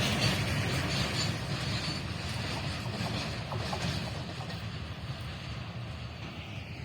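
A passing train's rumble and wheel-on-rail noise fading steadily as it draws away.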